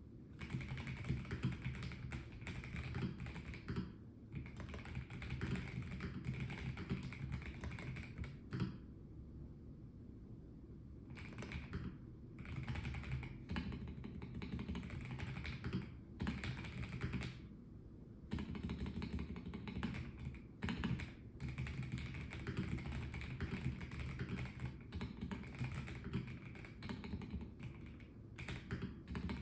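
Typing on a Melgeek Mojo84 plastic-cased mechanical keyboard: runs of key clicks broken by brief pauses, the longest about a third of the way in, over a low steady hum.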